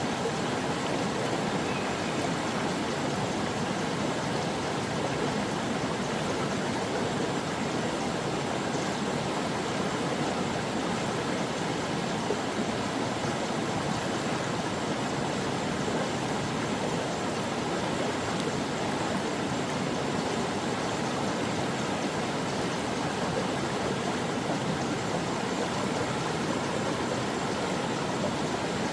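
Mountain stream flowing over rocks: a steady, even rush of water with no pauses or changes.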